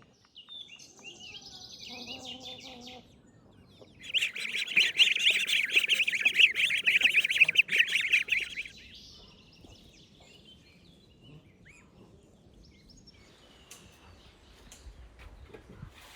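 Birds chirping: a loud, dense run of rapid high chirps starts about four seconds in and lasts about five seconds, with fainter chirps before and after.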